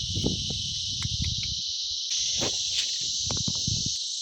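Steady, high-pitched chorus of insects that does not let up, with irregular low rustling, thumps and a few clicks over it.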